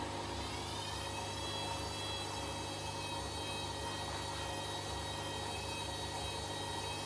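Hoover H-Wash 300 washing machine's motor whining, rising in pitch over the first second and a half as the drum speeds up, then holding steady over a low hum.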